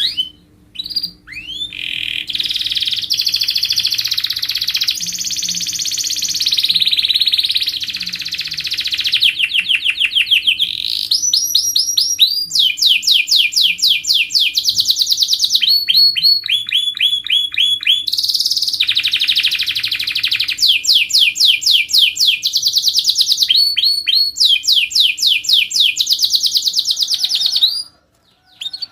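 Domestic canary in full song: a long unbroken run of rapid trills and quickly repeated notes, switching between rolls of different speed and pitch, breaking off suddenly shortly before the end.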